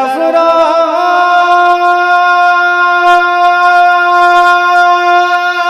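A naat singer's voice holding one long sustained note. It wavers through an ornamental run for about the first second, then settles into a steady tone, amplified through a PA system.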